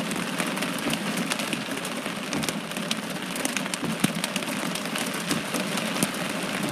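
Heavy rain pelting a car's roof and windshield, heard from inside the car: a steady hiss with a dense patter of individual drop hits.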